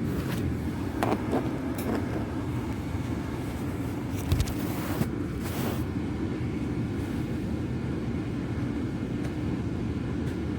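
Car running, a steady low rumble heard from inside the cabin, with a few light clicks early in and a sharp thump about four seconds in, followed by two brief rustles.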